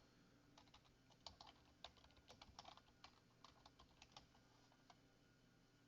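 Faint typing on a computer keyboard: a quick, uneven run of keystrokes that stops about four seconds in.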